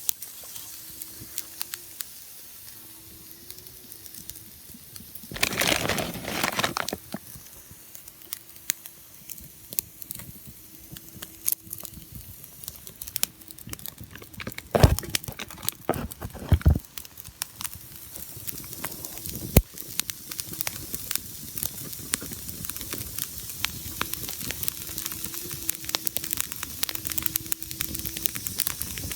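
Wood fire crackling with a steady run of small snaps, a louder rushing flare-up about six seconds in, and a few sharp pops in the middle.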